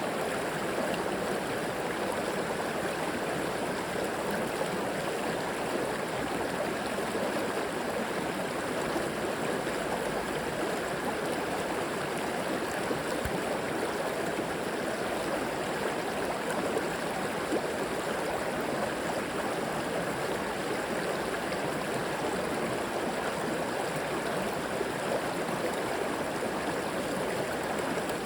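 River water flowing over rocks, a steady rushing and gurgling that does not change.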